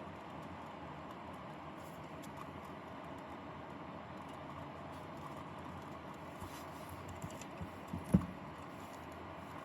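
Workbench handling sounds: faint light clicks and rustles of small parts over a steady hiss, with one dull knock about eight seconds in.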